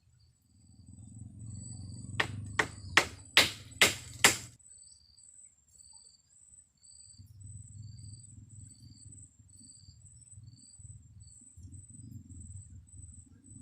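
Six sharp knocks in quick succession, a couple of seconds in, the loudest sounds here. Under them an insect chirps in short high pulses about twice a second, with low rumbling noise coming and going.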